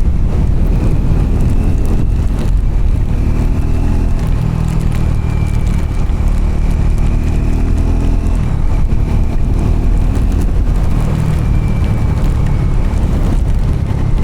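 Triumph Scrambler's parallel-twin engine running steadily as the motorcycle rides along, its note shifting slightly with the throttle.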